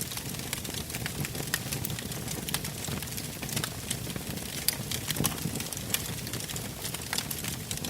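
Wood campfire burning, its logs crackling with frequent irregular sharp pops over a low steady rumble of flame.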